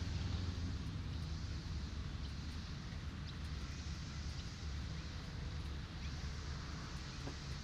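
Road traffic and beach surf heard together: a steady low traffic rumble under an even hiss of waves, with a few faint short high chirps.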